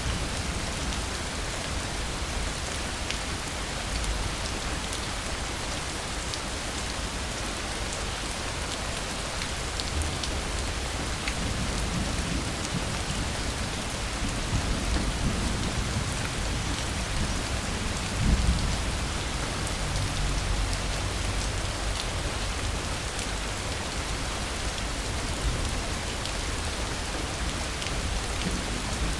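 Steady heavy rain falling, with fine drop patter throughout. A low rumble of distant thunder swells through the middle, peaking about two-thirds of the way in.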